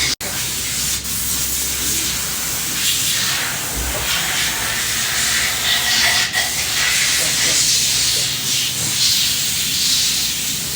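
Loud, steady hiss of air or liquid being sprayed, swelling and easing in strength.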